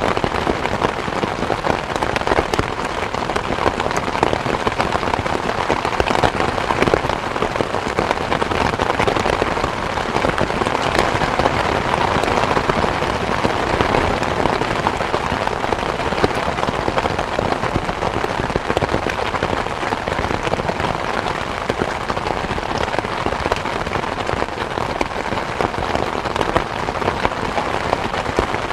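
Steady rain falling: an even hiss of rain with a dense patter of individual drops landing.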